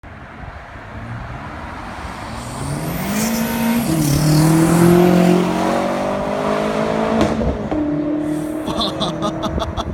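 BMW M6 Gran Coupe's twin-turbo V8 with a straight-piped exhaust accelerating hard, its note climbing in pitch and getting louder. The note drops sharply about seven seconds in, then holds a steady drone with fast crackling near the end.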